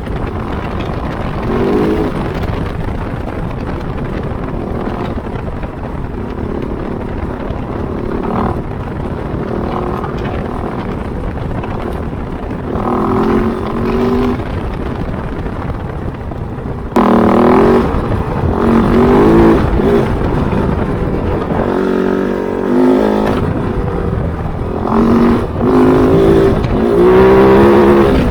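Kove 450 Rally's single-cylinder engine under way off-road, its revs rising and falling again and again as the throttle is opened and closed, over a steady rush of wind and tyre noise. About seventeen seconds in the sound suddenly gets louder, and the rises in revs come closer together.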